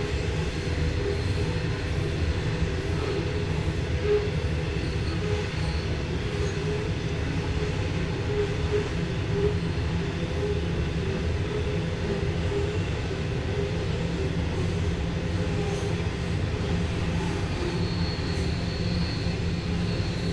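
Coal train rolling past on the rails in a steady, unbroken rumble, with a faint high wheel squeal near the end.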